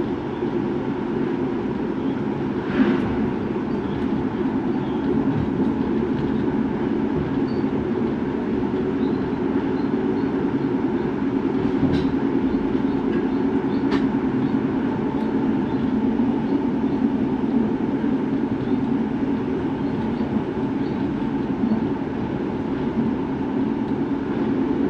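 Steady running noise of a Rhaetian Railway train heard from inside the passenger coach: a constant low rumble and hum of wheels on rail. A short knock about three seconds in and a couple of sharp clicks later on.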